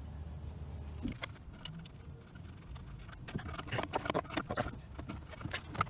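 Irregular small metallic clicks and clinks of hand tools working a bolt loose under a truck, growing denser from about three seconds in.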